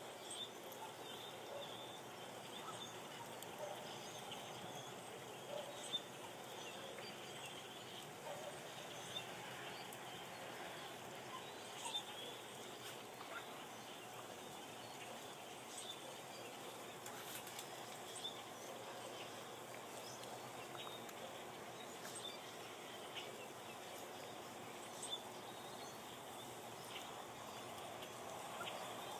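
A large flock of black birds calling together, a continuous faint chatter of many overlapping chirps with sharper single calls scattered through it.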